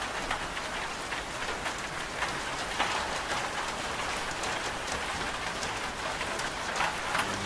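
Steady rain with many small drops pattering on a surface, without any machine hum.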